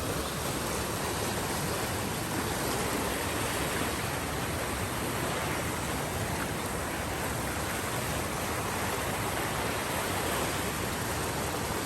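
A swollen river in flood rushing steadily, running high after a night of heavy rain.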